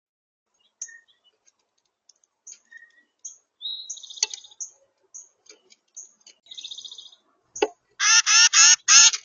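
Songbirds calling at a backyard feeder: scattered short, high chirps and a couple of brief buzzy trills, then four loud, harsh calls in quick succession near the end.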